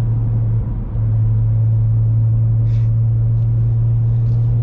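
2021 BMW M3's S58 twin-turbo straight-six idling through a catless, valveless race exhaust, a steady low drone with a brief dip a little under a second in.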